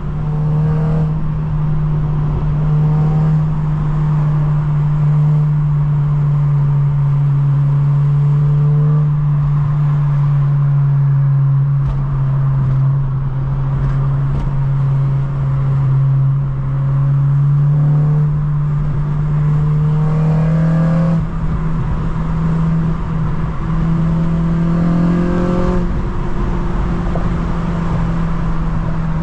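Honda Civic Si's 2.0-litre four-cylinder i-VTEC engine and exhaust droning steadily while driving, the pitch creeping slightly higher with a couple of small steps.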